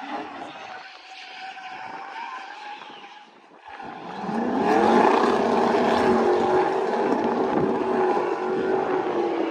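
A high-powered race car engine comes up hard about four seconds in and is held at high revs, loud and steady. Fainter engine noise comes before it.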